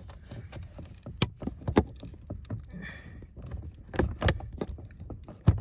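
Scattered clicks, taps and knocks of hands working at plastic steering-wheel trim and parts inside a car, with a louder knock about four seconds in.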